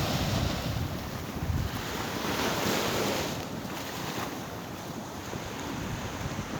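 Wind buffeting the microphone over a steady rush of sea surf, easing off about halfway through.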